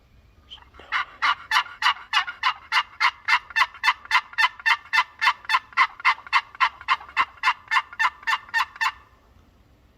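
Turkey yelping: a long, even series of about thirty sharp notes, about four a second, stopping near the end.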